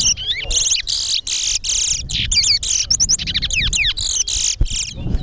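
Towa-towa seed finch singing a fast, unbroken stream of sharp chirps and sliding whistles: a song bout in a singing race, where each song is counted.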